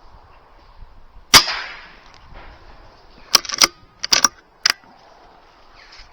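A single air-rifle shot about a second in, with a short echo, followed between about three and five seconds in by several sharp metallic clicks and knocks.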